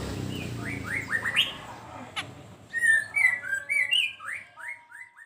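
Siri-siri songbird singing a rapid run of short, rising whistled notes, loudest in the second half. A low background rumble fades out in the first two seconds, and there is one sharp click about two seconds in.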